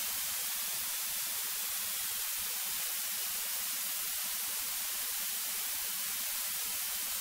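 Steady electronic hiss with no engine or cabin noise under it, cut in and out abruptly: the noise floor of the audio feed while no one is talking.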